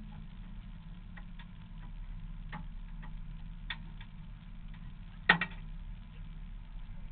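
Zilhouette race car's 2.5-litre BMW engine idling steadily, heard from the cockpit, with a few sharp clicks and knocks over it, the loudest about five seconds in.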